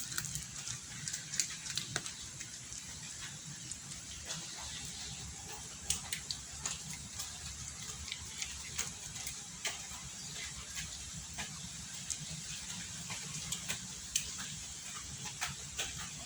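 Cats making small sounds: scattered soft clicks and ticks at irregular intervals over a steady low hum.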